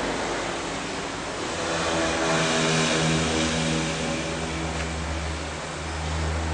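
An engine running steadily with a low hum that swells about two seconds in, over a steady hiss.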